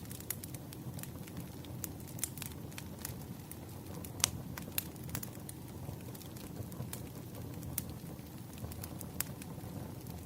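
Fireplace crackling: a steady low rumble of burning with irregular sharp pops and snaps, the sharpest about four seconds in.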